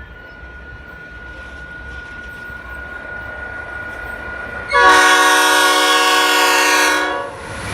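NSW 81 class diesel-electric locomotives leading a coal train approach with a building low rumble, then the lead locomotive's multi-tone air horn sounds one long blast of about two and a half seconds before cutting off.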